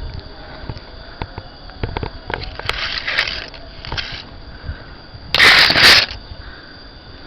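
Scattered light knocks and clicks with short rustles, then a loud rustle lasting under a second about five and a half seconds in.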